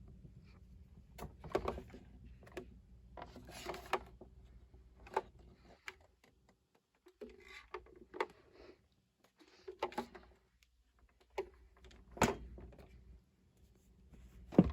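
Plastic toy truck being handled: irregular light clicks and knocks as it is picked up, set down and turned over.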